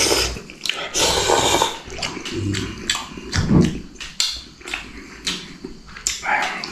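Close-miked eating noises: a man slurping instant noodles in loud bursts, with chewing clicks and a low grunt between mouthfuls.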